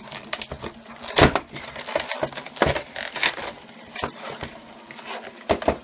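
A cardboard collector's box being handled and opened: irregular clicks, scrapes and rustles of the packaging, with the sharpest sounds about a second in and near the middle.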